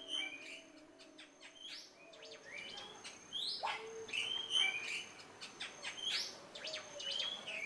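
Birds calling: a string of short chirps and quick rising whistled notes, one every second or so, with a faint steady high tone behind them.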